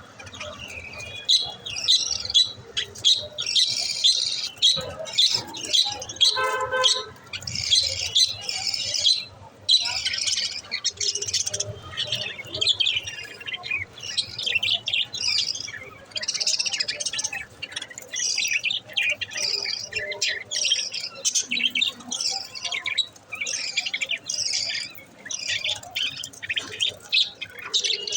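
Pet budgerigars chattering: a busy, unbroken run of short high chirps and squawks, with one longer pitched call about six seconds in.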